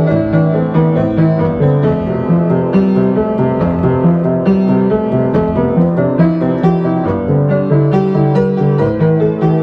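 Solo piano playing a fast, even run of repeated notes over a moving bass line.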